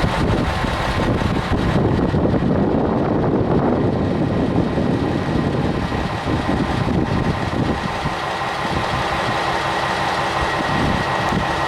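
Diesel railcar of the Kyoto Tango Railway idling while stopped at the platform: a steady engine rumble.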